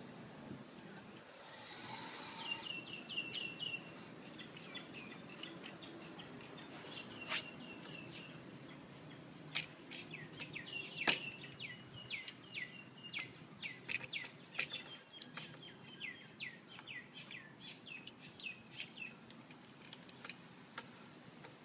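Small bird chirping in long runs of short, high, downward-slurred notes repeated several times a second. A few sharp clicks cut through, the loudest about 11 seconds in.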